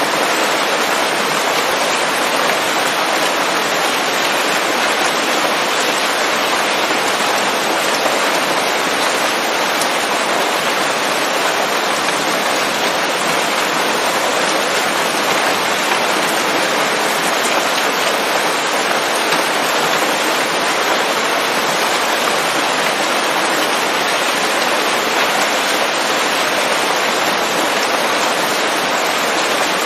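Steady rain falling on leaves, a dense even patter with no thunder or distinct drops standing out.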